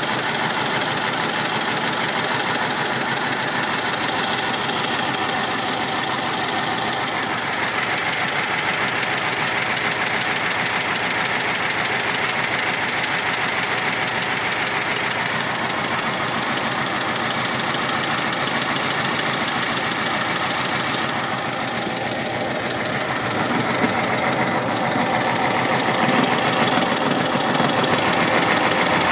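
1965 Porsche 912's air-cooled flat-four engine idling steadily, heard close up.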